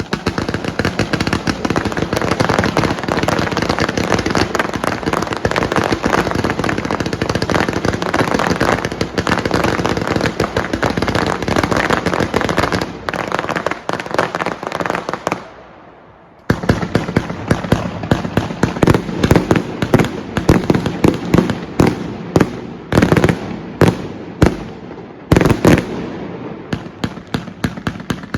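New Year's Eve fireworks: a dense, continuous rapid crackling for about fifteen seconds that fades out. After a short pause a new run of separate loud bangs starts, several a second.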